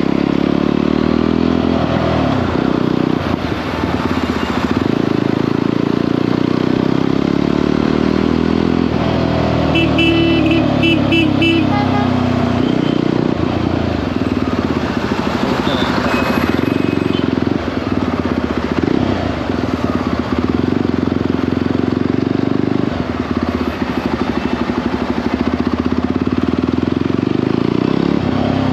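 Jawa 42 motorcycle's single-cylinder engine running at road speed, its pitch shifting now and then with the throttle, over wind noise. A short run of rapid high pulsing tones comes about ten seconds in.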